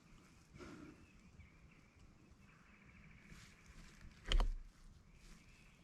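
Quiet woodland ambience with a faint steady high tone, broken once by a short, sudden thump about four seconds in.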